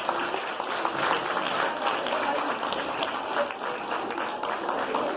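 An audience applauding steadily, with some voices mixed in.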